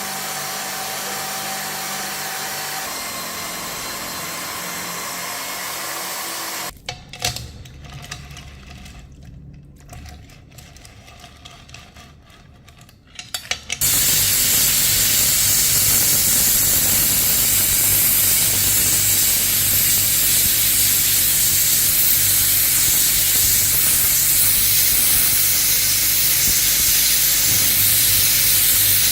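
Steady hissing noise, fading to a quieter low hum with a few clicks about seven seconds in, then a louder, even hiss that starts suddenly about fourteen seconds in and holds.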